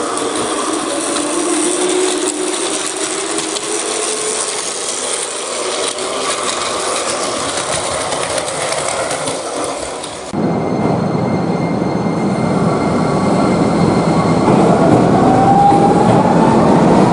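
Electric train running on the rails. About ten seconds in, the sound cuts abruptly to a train pulling away, its traction motor whine rising steadily in pitch as it accelerates.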